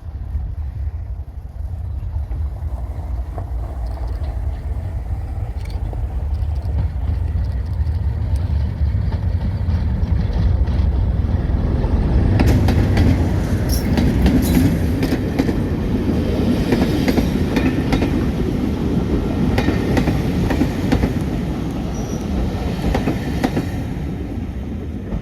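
Diesel train running on the rails: a heavy, steady low rumble, with wheels clicking and rattling over the track coming in louder about halfway through.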